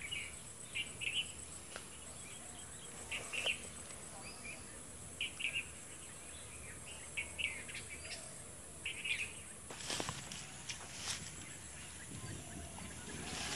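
Birds chirping outdoors: short high calls in twos and threes every second or so over a steady faint hiss, with a few brief rustles near the end.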